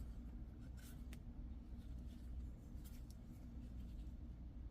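Steady low hum with a few faint light clicks and scrapes as small metal piston rings are handled on a piston.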